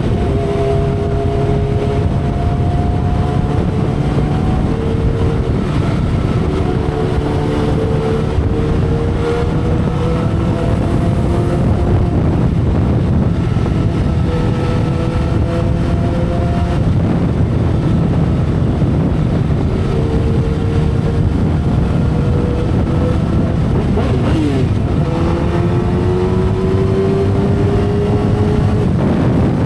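2012 Kawasaki Ninja ZX-10R inline-four engine running at expressway speed under heavy wind rush. The engine note climbs slowly in pitch over several long stretches, each dropping back to a lower pitch before climbing again.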